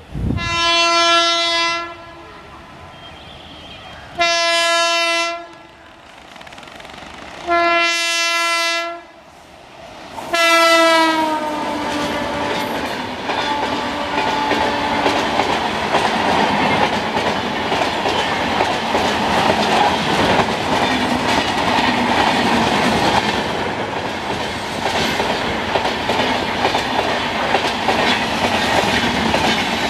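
WAP7 electric locomotive horn sounding four long blasts a few seconds apart; the last one drops in pitch as the locomotive passes. The LHB express coaches then run past at speed with a steady rumble and wheel clatter.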